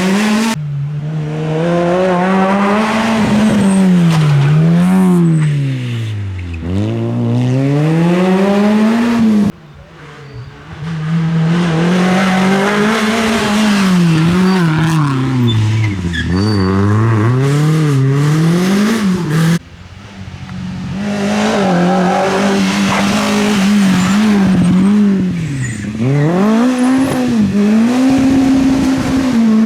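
Rally car engines revving hard, the pitch climbing and dropping again and again through gear changes and lifts off the throttle. The sound cuts off suddenly twice, about a third and two thirds of the way through, and another car's engine takes over each time.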